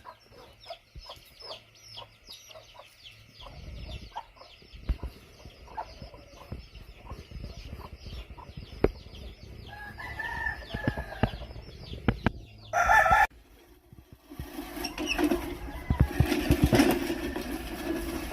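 Yard chickens calling: a dense run of quick, high chirps and clucks, a pitched call about ten seconds in and a short loud call about thirteen seconds in, with scattered knocks throughout. A lower, busier sound comes in at about fifteen seconds.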